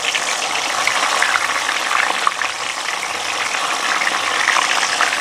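Tofu frying in hot cooking oil in a pan: a steady sizzle dotted with small crackling pops.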